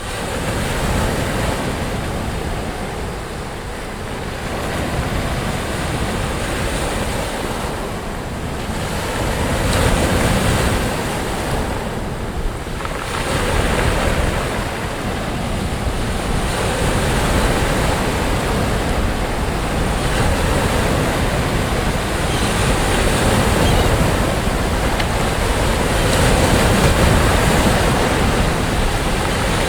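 Sea waves breaking and washing on the shore, a continuous surf that swells and eases every few seconds, with wind rumbling on the microphone underneath.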